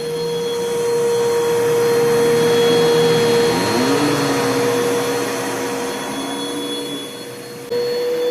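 Bissell PowerForce Bagless 6583 vacuum cleaner's 10-amp motor running with a steady whine and rushing air. About halfway through, the pitch shifts and a lower tone slides up. Near the end it jumps suddenly back to the higher whine.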